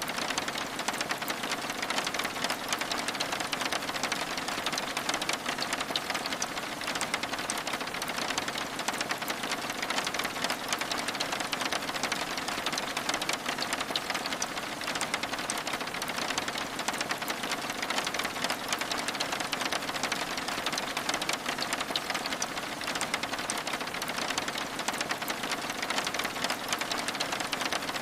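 Steady rain with a dense patter of fine drop ticks, drops striking window glass.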